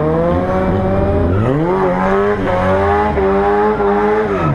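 Ford Escort drag car's engine revving hard: the revs climb quickly about a second and a half in, hold high for a couple of seconds, then drop near the end.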